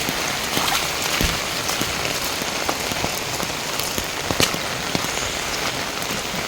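Heavy rain pouring steadily, with scattered sharp ticks of individual drops hitting close by.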